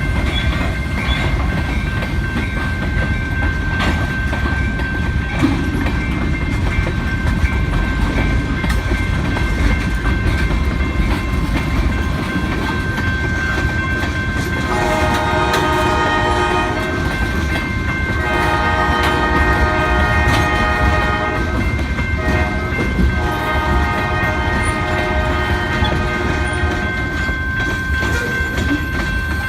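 Freight train running past with a steady low rumble and wheel clatter on the rails. In the second half the locomotive horn sounds several long blasts, each a couple of seconds, with another starting near the end.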